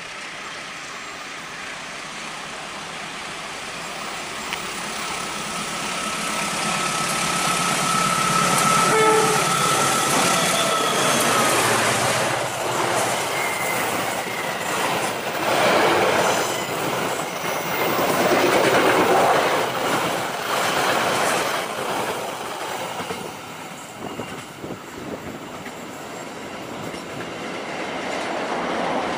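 Diesel-electric locomotive hauling a passenger train approaches and passes close, with a steady horn-like tone held for about five seconds before the locomotive goes by. The passenger coaches then rush past with rapid clickety-clack of wheels over the rails, and the noise eases as the train moves away.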